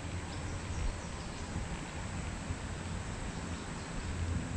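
Steady outdoor background noise: an even hiss with a low rumble underneath, and no distinct event.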